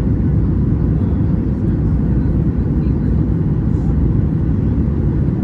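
Steady low rumble of a Boeing 737-800's engines and rushing air, heard from inside the passenger cabin.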